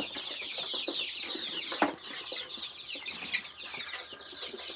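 A flock of about 200 four-week-old layer chicks peeping, many short high cheeps overlapping continuously. A single sharp knock sounds a little under two seconds in.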